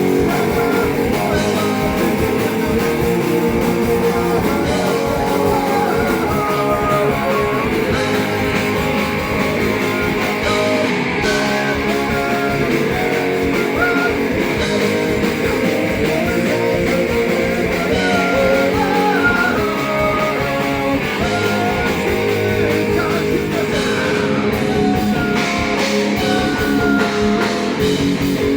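Rock band playing, with electric guitar to the fore over a full band.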